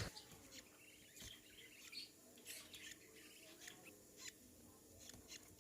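Faint, short, high cheeps from budgerigar chicks, scattered irregularly, about seven in all.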